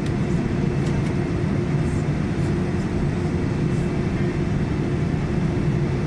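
Boeing 787-9 taxiing after landing: a steady rumble of engines at idle with a constant low hum.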